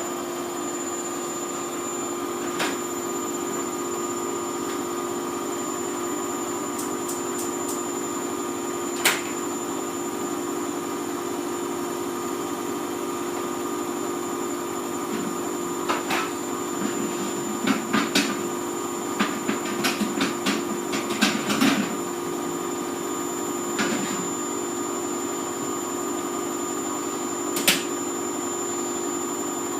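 Hoover Vision Tech washing machine running with a steady motor hum and whine, with a flurry of sharp clicks and knocks from inside the drum about halfway through.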